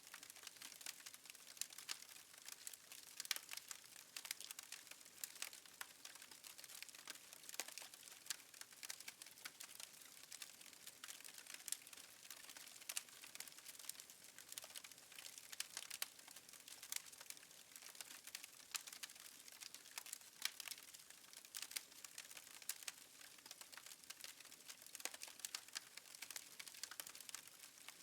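Fireplace fire crackling quietly: many small, irregular pops and snaps over a soft hiss.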